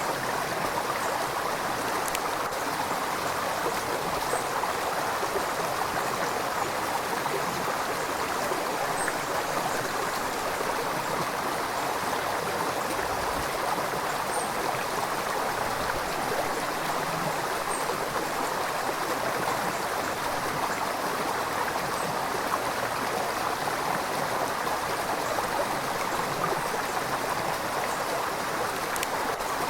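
River water flowing and babbling over rocks in a steady rush, with faint small splashes now and then.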